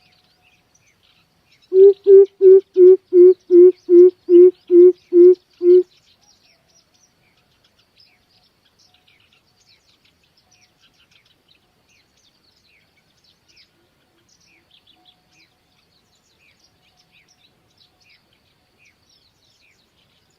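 Greater coucal giving its deep hooting call: a run of eleven even 'boop' notes at a steady pace of under three a second, lasting about four seconds. Small birds chirp faintly throughout, and a few distant coucal hoots come later.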